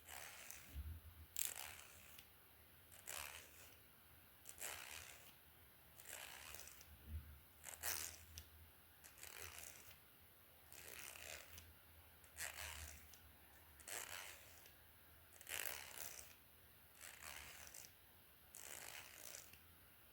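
Hair being brushed close to the microphone: soft, scratchy bristle strokes repeated slowly, about one every second or so.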